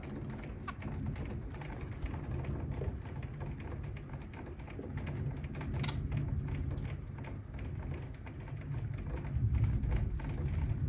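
Rain ticking and pattering with a low rumble of thunder that swells twice, mixed with scattered sharp clicks and taps and one louder click about six seconds in.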